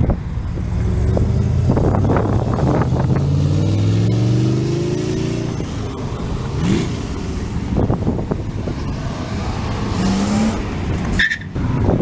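Car engine accelerating as it pulls away. Its pitch rises for a few seconds, falls back, then rises briefly again, with steady engine and traffic noise throughout.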